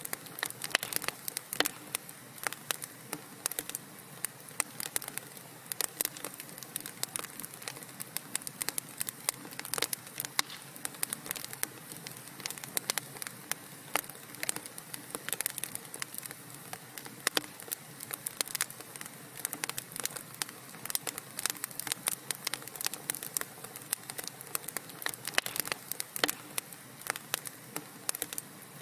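Wood fire crackling: a steady low hiss with many irregular sharp pops and snaps of burning logs.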